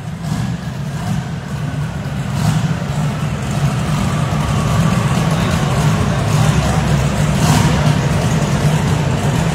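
Castle Hill Performance Commodore's high-horsepower engine running on a chassis dyno, a steady low engine note that grows louder over the first few seconds and then holds.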